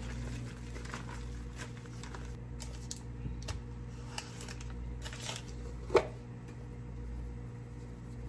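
Kitchen handling sounds from breakfast preparation: scattered light clicks, taps and rustles, with one sharp knock about six seconds in, over a steady low hum.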